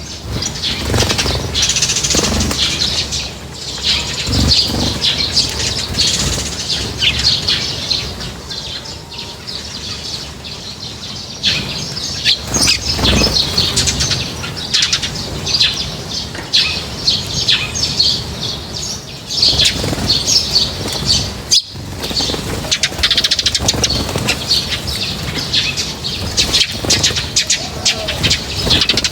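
A flock of small birds chirping busily and continuously, with wings fluttering among the calls.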